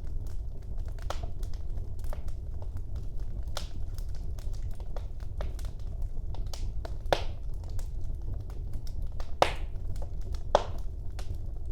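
Wood fire burning in a fireplace: a steady low rumble of flame with irregular small crackles, and three louder pops about 7, 9.5 and 10.5 seconds in.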